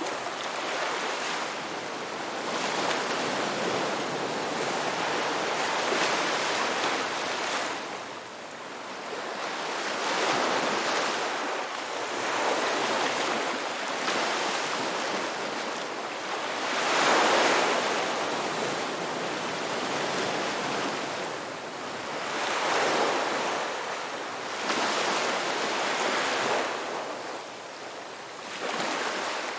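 Ocean waves breaking and washing on a rocky beach, surging and ebbing every few seconds in an irregular rhythm, with one louder wave about two-thirds of the way through.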